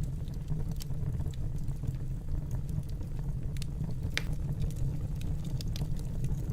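Wood fire burning in a fireplace: a steady low rumble of flames with scattered small crackles and pops, one sharper pop about four seconds in.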